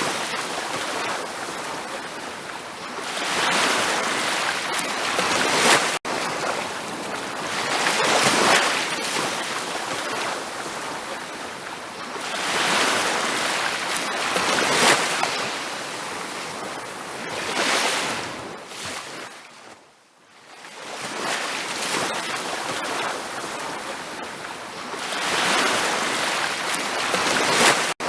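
Ocean waves breaking on a beach, the surf washing in and out in swells every few seconds. About two-thirds of the way through the sound fades almost away, then swells back.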